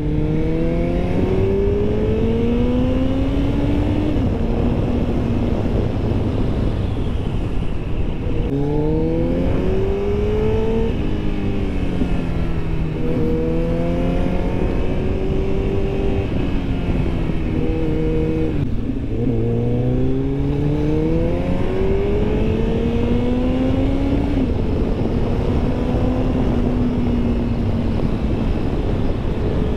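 Superbike engine pulling through the gears under hard acceleration, its pitch climbing and then dropping sharply at each gear change, with a few stretches of steady cruising in between, over constant wind and road rumble.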